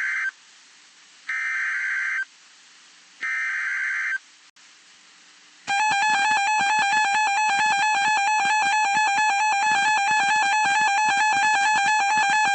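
NOAA Weather Radio's SAME alert header: the tail of one digital data burst, then two more raspy bursts about a second long and a second apart. Then, about six seconds in, the continuous warning alarm tone starts, signalling that a warning message follows.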